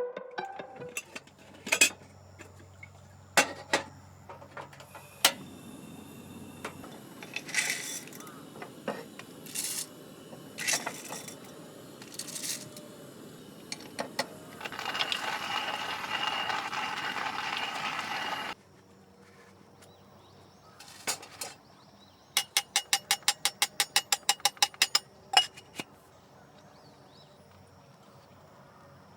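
Clinks and knocks of dishes, utensils or camp gear being handled, with a few seconds of steady hissing noise past the middle that cuts off suddenly, and a quick run of rapid clicks, about ten a second, near the end.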